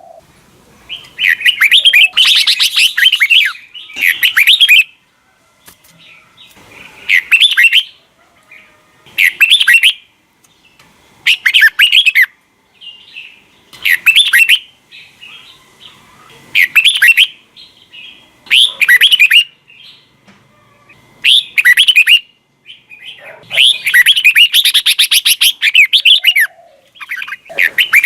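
Red-whiskered bulbul singing loud, short warbled phrases, about one every two seconds, with longer runs of song near the start and near the end.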